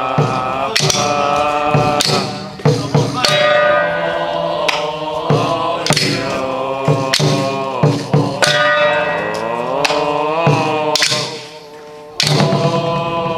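Taoist ritual music: a loud, sliding melodic line with many overtones over sharp percussion strikes, briefly dropping away about eleven seconds in.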